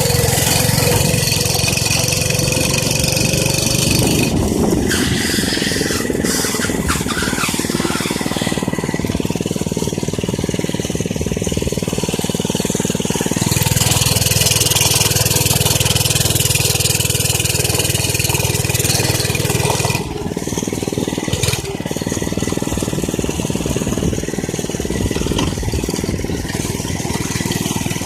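Minibike's small engine running under way, its pitch and loudness rising and falling with the throttle, with a louder, higher-revving stretch in the middle of the ride.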